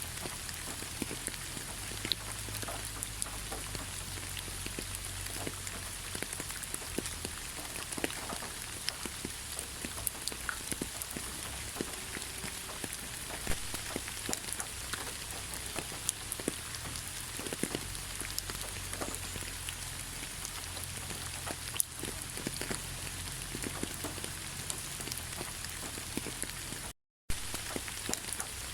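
Steady rain falling in a pine forest, with many separate drops pattering close by. The sound cuts out for a moment near the end.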